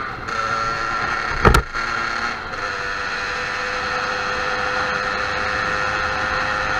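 Motorcycle engine running at a steady speed under a hiss of wind noise, with one sharp knock about one and a half seconds in.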